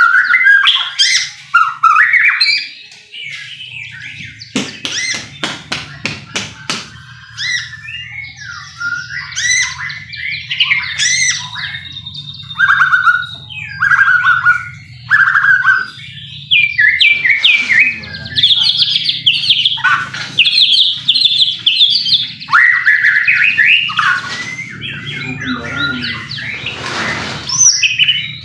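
White-rumped shama singing a loud, varied song of rapid whistled and chirped phrases. A run of sharp clicks comes about four to seven seconds in, and a low steady hum lies beneath from about three seconds in.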